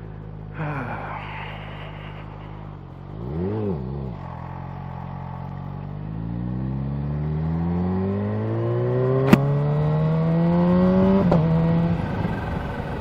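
Kawasaki Z H2's supercharged inline-four motorcycle engine idling, blipped once briefly, then pulling away with its note rising steadily for several seconds before a gear change drops the pitch. A single sharp click comes shortly before the shift.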